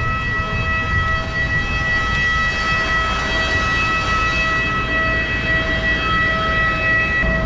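Steady, high-pitched turbine whine from a parked jet airliner, several tones held together over a low rumble.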